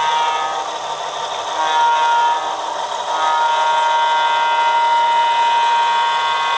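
Model-locomotive sound decoder playing a diesel horn through a small speaker. The first blast ends about half a second in, a short toot comes at about a second and a half, and a long blast starts about three seconds in and holds to the end, with engine noise beneath.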